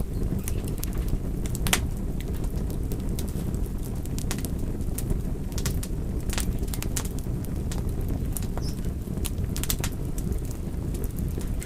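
Fire crackling: a steady low rumble of burning with sharp, irregularly spaced pops and snaps.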